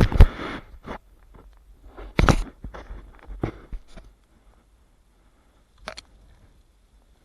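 A few thumps with crunching rustles in the first four seconds, then one sharp click about six seconds in.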